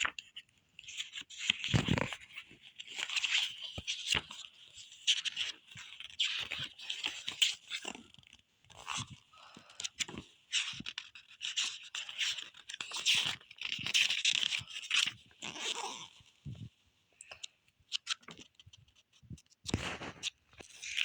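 Rustling and crinkling of album packaging and its contents being handled and unpacked, with light taps and clicks scattered throughout.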